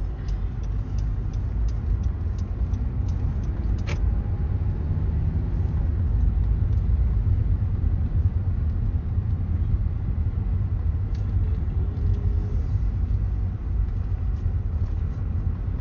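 Vehicle driving along, a steady low rumble of engine and road noise, with a run of light ticks in the first few seconds.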